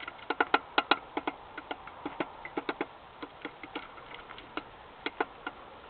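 Woodpecker pecking on a trail camera, close to its microphone: sharp, irregular taps, some in quick runs of two or three, with short pauses between.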